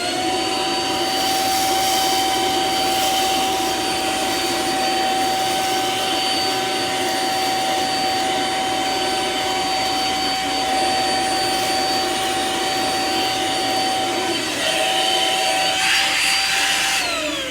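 Samsung CycloneForce upright vacuum cleaner running, its motor whining up to speed as it is switched on, holding a steady pitch while it sucks up rice, then winding down as it is switched off near the end. The suction is modest: it picks the rice up, but not the best suction in the world.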